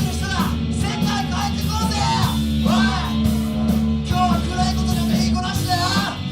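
A rock band playing live, with a lead vocal singing over electric guitars, bass and drums.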